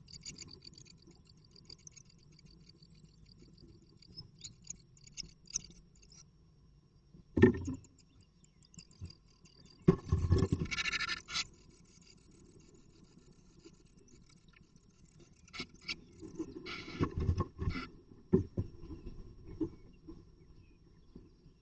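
Great tit moving about inside its nest box, scratching and scraping at the nest material in several separate bursts, the longest lasting a second or two.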